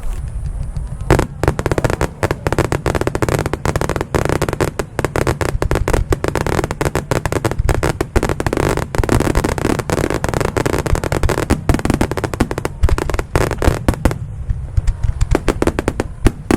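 Aerial fireworks going off in a dense, rapid barrage of bangs and crackles starting about a second in, thinning briefly near the end before picking up again.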